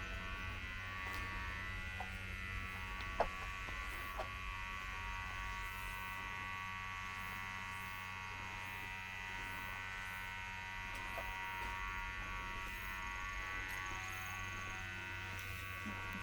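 A steady electrical buzz made of several even tones, with two short clicks about three and four seconds in.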